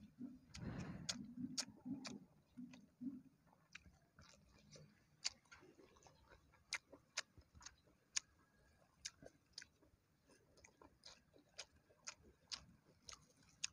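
Faint mouth sounds of a person eating: chewing, with scattered sharp smacking clicks throughout and a denser stretch of chewing in the first three seconds.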